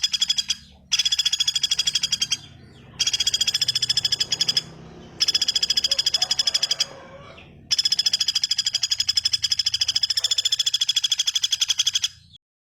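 A bird's rapid trill of evenly repeated high-pitched notes, about ten a second, coming in four bouts of one to four seconds with short gaps between them.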